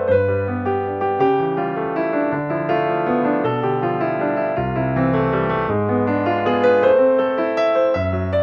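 Background piano music: a gentle piece of sustained notes over a slowly changing bass line.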